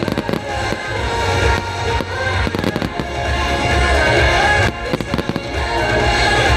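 Fireworks bursting and crackling in quick clusters over a deep rumble, with music playing at the same time.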